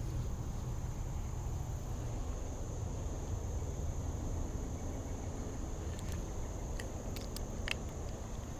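Steady outdoor background noise: a low rumble with a thin, steady high-pitched hum above it, and a few faint clicks near the end.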